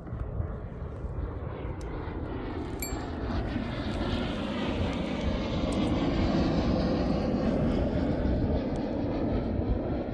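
An airplane flying over, its engine sound swelling to its loudest about two-thirds of the way through and easing slightly near the end, over a low wind rumble.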